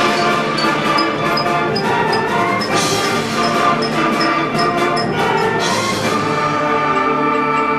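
School concert band playing, brass and woodwinds holding sustained chords over a regular ticking percussion beat of about three a second.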